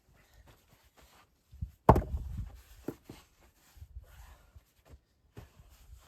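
A single sharp thud about two seconds in, the loudest sound, with a few softer knocks and scattered shuffling around it.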